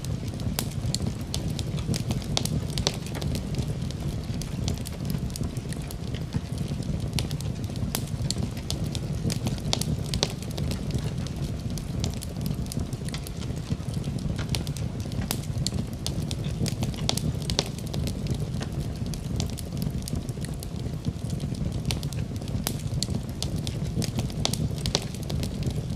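Wood fire crackling in a fireplace: a steady low rumble of flames with many irregular sharp pops and snaps.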